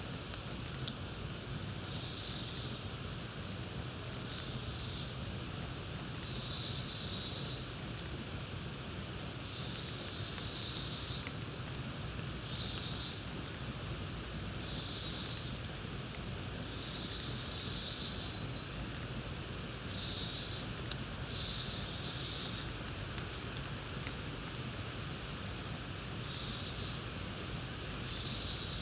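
Campfire crackling: a steady hiss with scattered sharp pops, two louder ones about a second in and near the middle. High chirping comes and goes every second or two, with a couple of short bird chirps.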